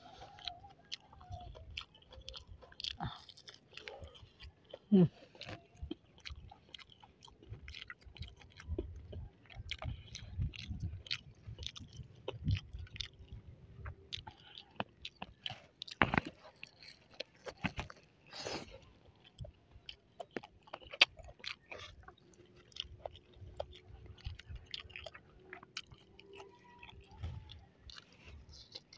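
Close-miked chewing and biting of breaded crispy balut (fertilized duck egg): many small wet mouth clicks, with a few louder sharp clicks scattered through.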